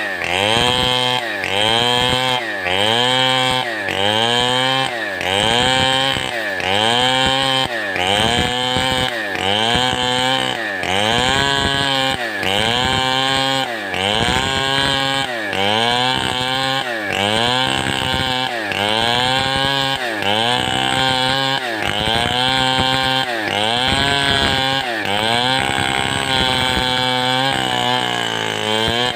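Large two-stroke chainsaw of the Stihl 070 type, held at high revs while being rocked through a cut. The engine pitch drops under load and climbs back again in an even rhythm, about once every second and a half.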